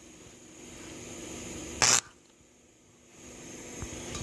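A single short, sharp hissing burst about two seconds in, over faint steady background noise.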